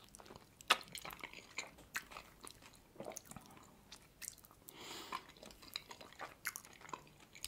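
Close-miked chewing of a steamed meat dumpling (manti): soft, wet mouth sounds with many small sharp clicks scattered throughout.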